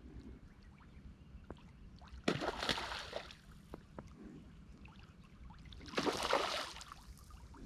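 Water sloshing in two brief surges, about two seconds in and again about six seconds in, over a low steady rumble.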